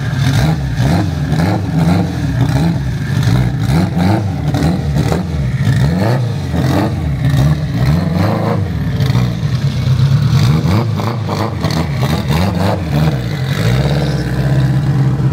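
A high-performance car engine revving hard, over and over, its pitch rising and falling, with many sharp pops mixed in. Near the end it settles to a steady, even note.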